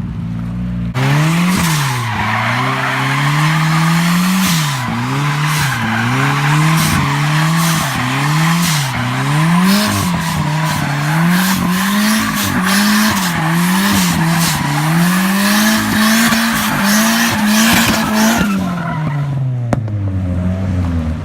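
Drift car's engine revving hard, its pitch climbing and dropping over and over about once a second, while the tyres squeal through a slide. The engine comes on suddenly about a second in and sinks back toward idle near the end.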